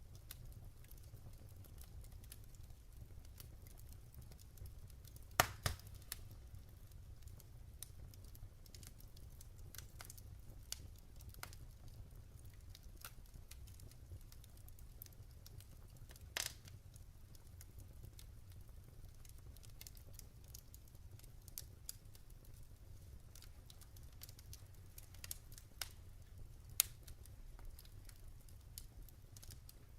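Log fire crackling in a fireplace: scattered small snaps over a low steady rumble, with louder pops about five, sixteen and twenty-seven seconds in.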